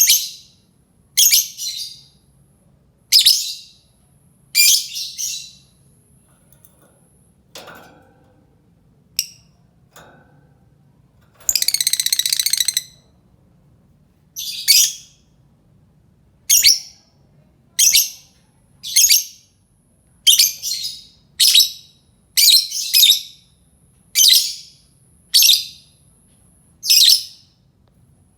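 Lovebird calling: sharp, high chirps repeated every one to two seconds, with one longer rattling trill lasting over a second about halfway through.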